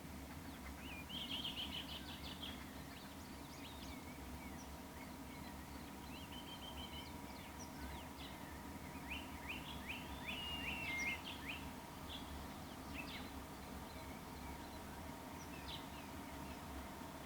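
Birds calling: short runs of quick chirping notes, loudest about a second in and again from about nine to eleven seconds, over a low steady hum.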